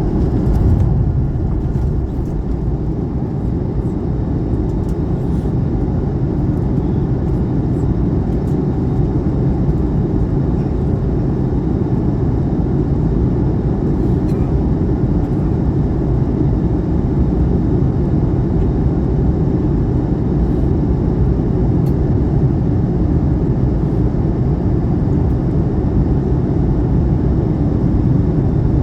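Steady low rumble of engine and airflow noise heard inside the passenger cabin of an Airbus A321neo.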